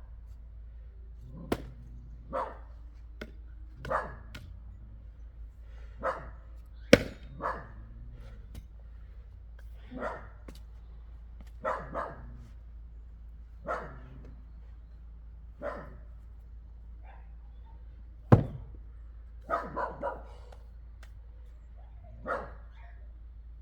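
A dog barking in single barks, one every second or two, with pauses between. A few sharp knocks fall among the barks, the loudest about seven and eighteen seconds in.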